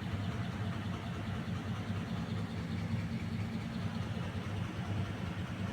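A 6-ton packaged air-conditioning unit running with only its belt-driven blower on, making a steady low drone with a rough, mechanical noise. The noise is the sign of a badly worn, breaking V-belt on the blower drive.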